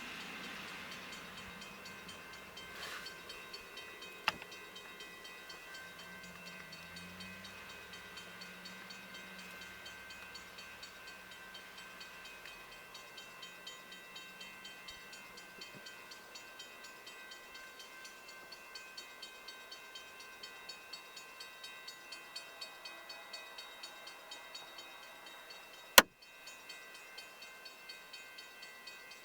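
Grade-crossing warning bell ringing steadily at about two strikes a second, with a faint low rumble of the approaching freight train for a few seconds. A single sharp knock near the end.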